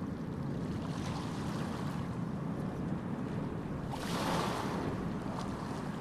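Steady background rumble and hiss, with a brief rustle about four seconds in.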